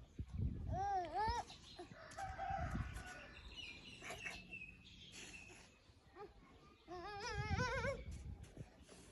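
An animal calling several times: two short arching cries about a second in, then a longer warbling call with a wavering pitch around seven and a half seconds in.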